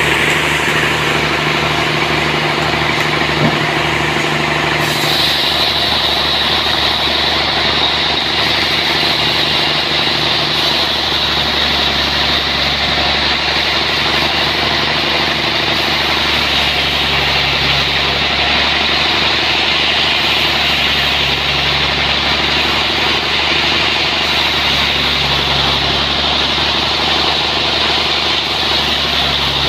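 Sawmill running steadily with an engine drone; about five seconds in a high, steady whine joins it and holds.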